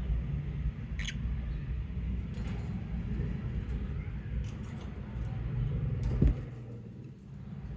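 A few short, faint chirps from lovebirds over a steady low rumble, the clearest about a second in. A loud thump comes just after six seconds.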